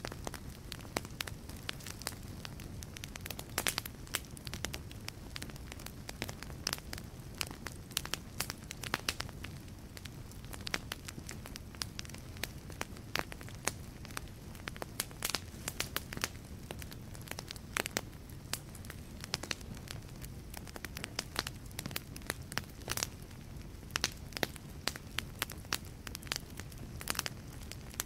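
Wood logs burning in a fireplace, crackling with many irregular sharp pops and snaps over a low, steady rumble of the flames.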